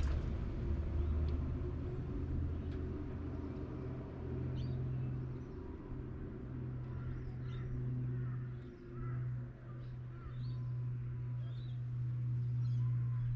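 A steady low rumble, like distant traffic, dipping briefly a few times, with small birds giving short, faint chirps from about four seconds in.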